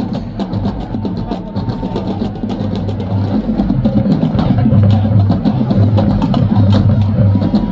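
Marching band playing, drum strikes prominent over low sustained horn tones, growing louder about three seconds in.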